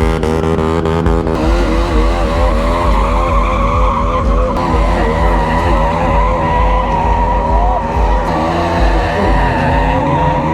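Stunt motorcycle engine revved up and down in quick repeated blips, with a steady tyre squeal from the rear wheel skidding on the pavement.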